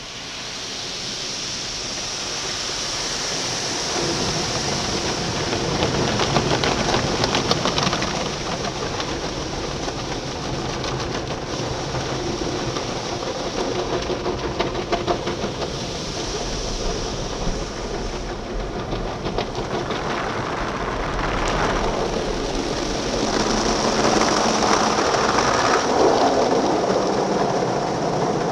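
Automatic car wash spraying water onto a car: a steady loud rush of water and machinery that rises suddenly at the start and swells louder twice.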